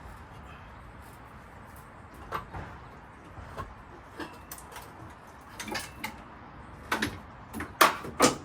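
Hand tools and metal engine parts clinking and clanking while an LS V8's top end is taken apart. Scattered sharp knocks run over a low background hum, growing into a quick run of louder clanks in the last second or so.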